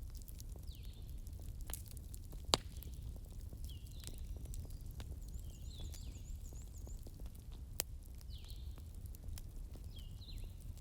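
Wood fire burning with a steady low rumble of flames and scattered crackles, and two sharp pops, about two and a half seconds in and near eight seconds in.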